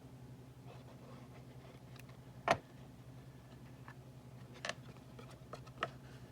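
Small clicks and taps of paper-crafting work at a desk: one sharp click about two and a half seconds in, then two lighter ones near the end. A faint steady hum sits under them.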